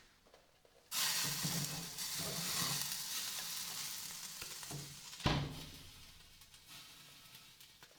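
Red-hot steel knife blade plunged into an oil bath for hardening: a sudden sizzle about a second in that slowly dies away, with a sharp click partway through.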